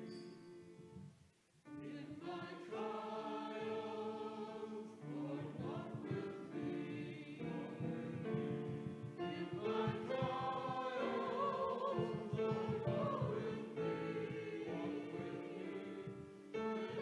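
Sacred offertory music: voices singing sustained melodic lines over instrumental accompaniment, with a brief pause about a second in before the music resumes.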